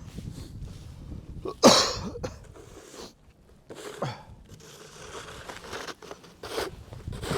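Snow shovel scraping and scooping through snow, with crunching. The loudest stroke comes about two seconds in, followed by three more strokes.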